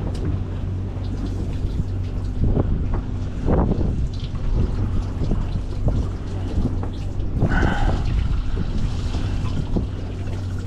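Fishing boat's engine humming steadily, with wind buffeting the microphone and water sloshing against the hull.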